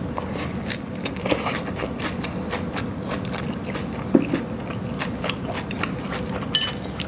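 Close-up chewing of a mouthful of crunchy salad, raw bok choy and croutons crunching between the teeth in many short crackles. A brief hummed 'mm' comes about four seconds in, and a sharp click near the end.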